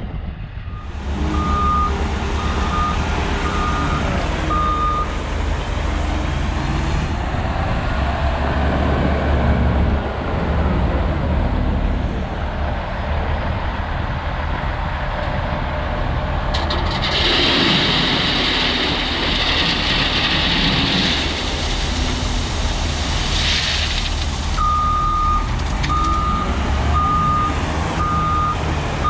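Diesel dump truck engine running steadily, with a reversing alarm beeping in even pulses near the start and again near the end. A few seconds past the middle comes a hiss lasting several seconds.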